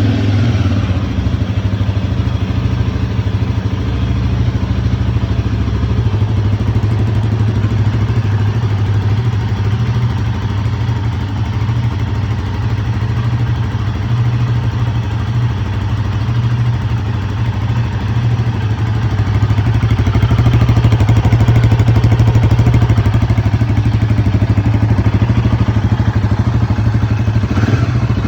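Royal Enfield Himalayan 450's single-cylinder engine idling steadily just after a cold start, getting a little louder about twenty seconds in.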